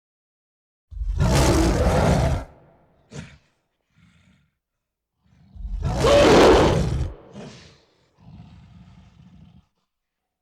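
A large animal roaring twice, each roar lasting about a second and a half, the first about a second in and the second about halfway through. Each roar is followed by a short grunt, and softer low growls come near the end.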